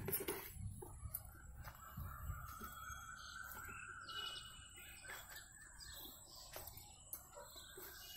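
Faint bird chirps and calls outdoors, one held note about two seconds in lasting a few seconds, over low rustling from the phone being handled.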